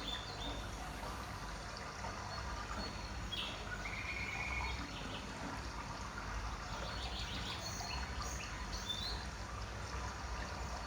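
Faint birds chirping now and then, with a few short calls, over a low steady background hum.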